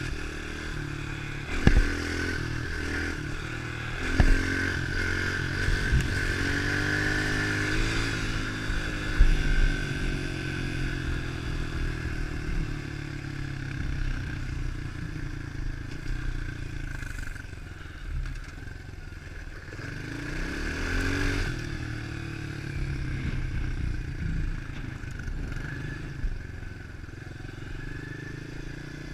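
110 cc pit bike's four-stroke single-cylinder engine running under way, its pitch rising and falling as it is revved up and eased off. A few sharp knocks stand out, loudest about nine seconds in.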